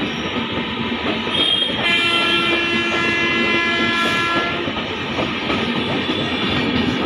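Indian Railways electric-hauled express train running past, with steady rolling and wheel noise. A locomotive horn sounds once for about two and a half seconds, starting about two seconds in.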